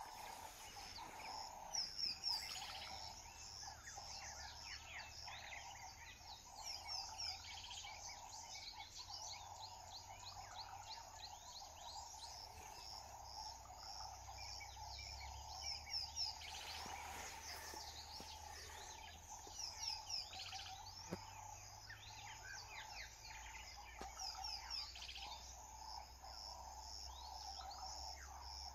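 Wild birds chirping over and over in short, quick falling notes, over a steady hum and a low rumble of outdoor background noise.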